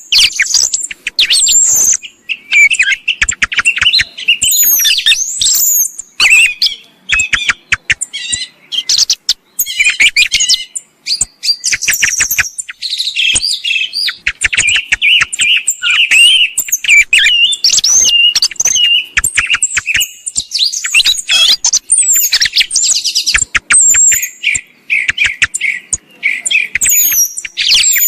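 Song thrush lure recording: a dense, loud mix of song thrush song phrases and calls, quick chirps, whistled glides and sharp clicking notes following one another without pause.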